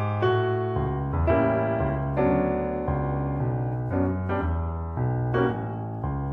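Piano playing a slow Christmas song, with notes struck about once a second over a bass line.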